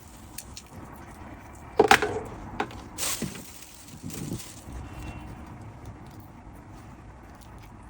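A few sharp, irregular snaps and clicks of food being prepared by hand, the loudest about two seconds in.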